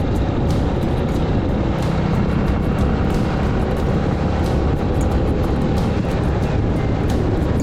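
Suzuki Grass Tracker single-cylinder motorcycle running on the road, with a steady low engine rumble and wind rushing over the mic.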